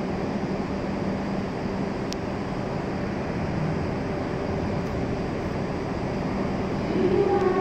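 W7 series Shinkansen train approaching the platform: a steady rumble that grows louder near the end, when a whining tone comes in.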